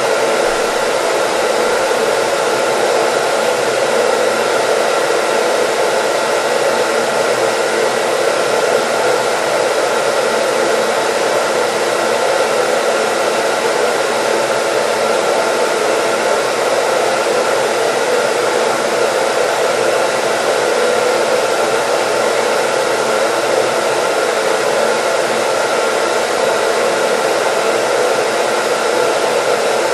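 Hair dryer running at a steady, unchanging level: an even rush of air with a faint steady motor whine.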